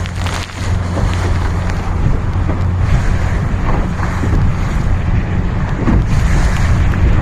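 Strong wind buffeting the microphone with a heavy rumble, over water rushing and splashing against the hull of a small sailboat sailing close-hauled in strong wind.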